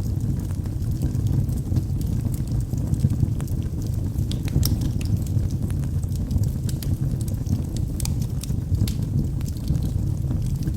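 Log fire crackling: irregular sharp pops and snaps over a steady low rumble of burning.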